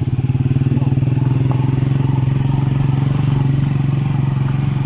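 Motorcycle engine running at a steady speed, with a fast, even pulse.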